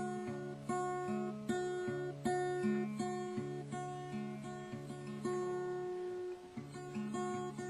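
Acoustic guitar finger-picked in a repeating pattern across the strings of a C-shape chord, capo at the first fret, with the bass note held under higher plucked notes. The picking breaks briefly about six seconds in, then resumes.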